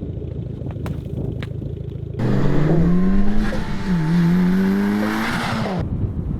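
Mitsubishi Evo IX's turbocharged four-cylinder engine with an aftermarket exhaust, idling steadily at first. About two seconds in the sound cuts to louder engine revving: the pitch climbs, dips briefly near the middle, climbs again, then stops abruptly and the idle returns.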